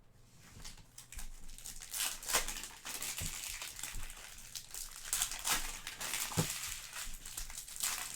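Trading-card pack wrappers crinkling and rustling as packs are opened and handled: a dense run of crackles.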